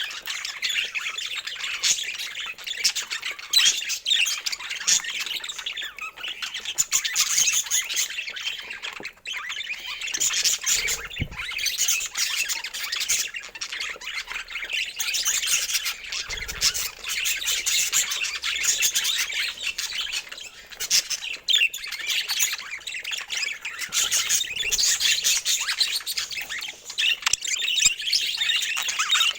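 Flock of budgerigars chattering without pause, many overlapping short calls and warbles. Two soft low thumps come through about eleven and sixteen seconds in.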